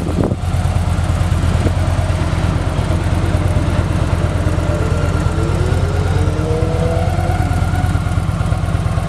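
Victory 106 cubic inch V-twin with a Victory Performance exhaust idling steadily.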